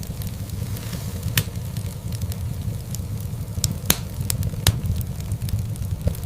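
Wood fire crackling in a fireplace: a steady low rumble of flames with scattered sharp pops and snaps, the loudest cluster of them a little before and after four seconds in.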